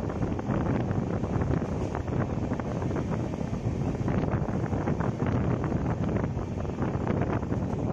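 Running noise of the Chennai–LTT Superfast Express heard from inside a moving coach: a steady deep rumble of the wheels on the rails with constant irregular rattling of the coach, and a rush of wind on the microphone.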